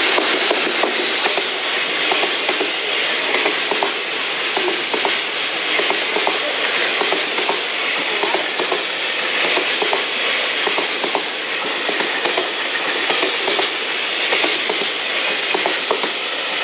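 A JR Freight container train passing close by: the EF210 electric locomotive goes past at the start, then a long run of container wagons rolls by, wheels clattering over rail joints in a steady stream of clicks.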